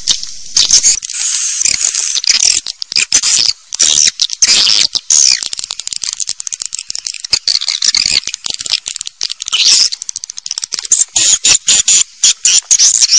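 Swiftlets chirping and twittering in a dense, unbroken chatter of high, rapid chirps and clicks, the kind of swiftlet call recording played to draw birds to a swiftlet house.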